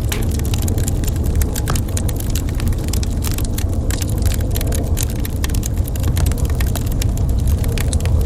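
Crackling wood fire: many quick pops and snaps over a steady low rumble of burning.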